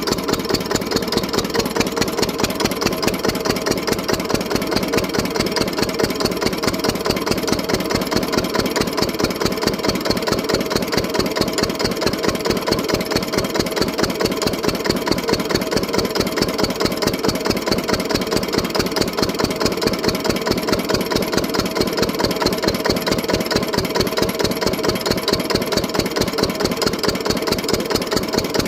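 An old engine running steadily, with an even, regular beat of firing pulses that holds the same pace throughout.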